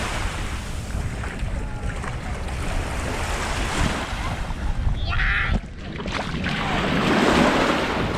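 Small waves breaking and washing up the sand, with wind rumbling on the microphone.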